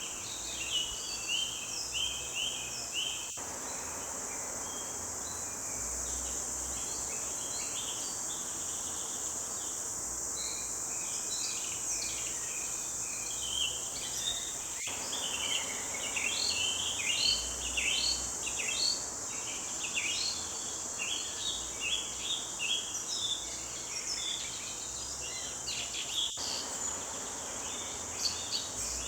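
Forest birds chirping and singing in many short, quick notes, busier in the second half, over a steady high-pitched insect drone.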